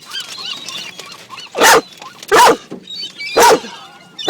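A dog barking four times, loud and sharp, starting a little over a second and a half in, over a steady background of many small birds chirping.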